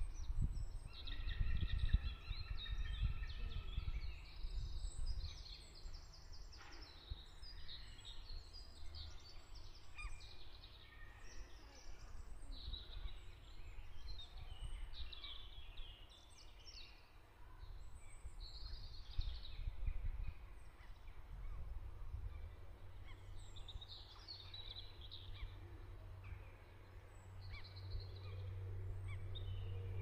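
Several songbirds chirping and warbling over a low background rumble. A steady low hum joins in during the second half.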